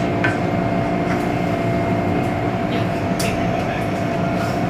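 MTR M-Train (Metro-Cammell electric multiple unit) running, heard from inside the car: a steady rumble of wheels and running gear with a constant hum, and a few brief high squeaks.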